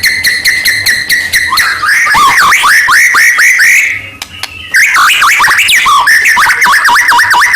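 White-rumped shama (murai batu) in full song. It gives clear whistled phrases, then a run of quick down-slurred notes several times a second. After a short break about four seconds in, it breaks into a rapid rising-and-falling warbled trill.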